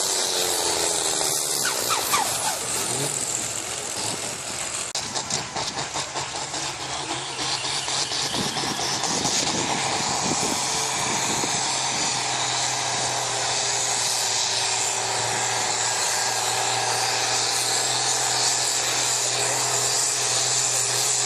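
Pulling tractor's engine running loud at high revs under load, with a rough, crackling patch about four to twelve seconds in.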